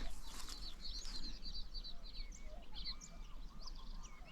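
Songbirds singing in a dawn chorus: many quick chirps and short whistled phrases from several birds at once, with a few lower whistles.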